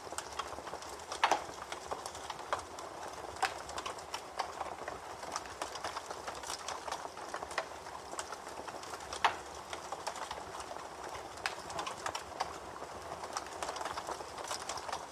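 Campfire crackling: irregular sharp pops and snaps over a steady hiss, with two louder pops, about a second in and about nine seconds in.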